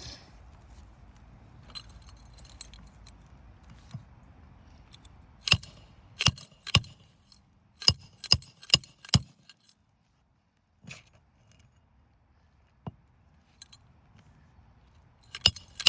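Roofing hammer striking nails into an asphalt shingle: a run of seven sharp metallic blows about two a second, starting some five seconds in. After a quiet stretch, another quick cluster of strikes comes near the end.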